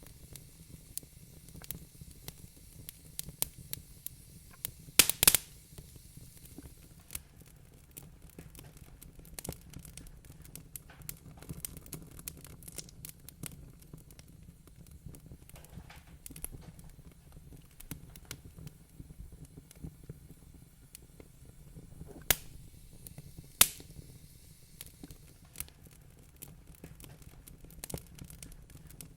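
Wood fire crackling in a fireplace: irregular small snaps and pops over a low steady rumble, with a few loud sharp pops about five seconds in and twice more later.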